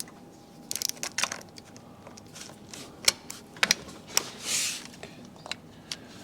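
Hand tools on engine bolts: scattered sharp metallic clicks of a ratchet and wrench as bolts are turned through an angle-tightening step, with a cluster of clicks about a second in and a brief soft hiss near the middle.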